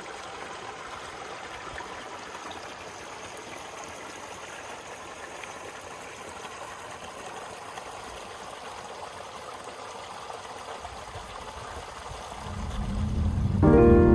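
Steady rushing noise of flowing water. Music comes in loudly near the end.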